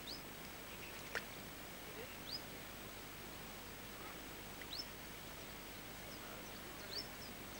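Short, high bird chirps, each sweeping upward, about every two seconds over a steady background hiss, with a single sharp click about a second in.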